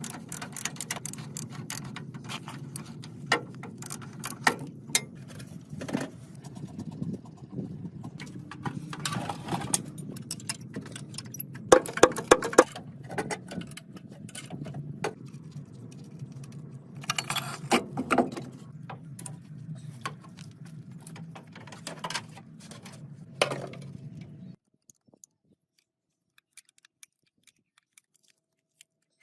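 Repeated metallic clinks and rattles, like tools and parts being handled, over a steady low hum. Everything cuts off abruptly near the end.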